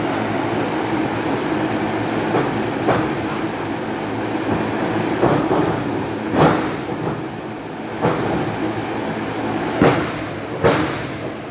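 Wrestlers hitting the ring: several sharp thuds and slaps on the mat over a steady murmur of hall noise, the loudest about six and a half and ten seconds in.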